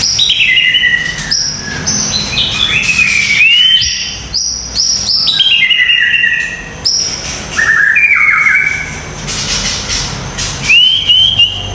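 White-rumped shama (murai batu) singing loudly and close, a fast, varied run of sharp repeated notes, falling whistles and rising upslurs with hardly a pause: the hard, rough song bursts ('tembakan kasar') prized in this bird.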